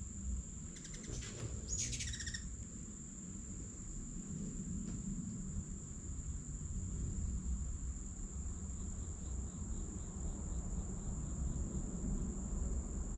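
A steady high-pitched insect drone throughout, with a bird calling about a second in: a quick run of notes, then a call sliding downward. A low rumble sits underneath.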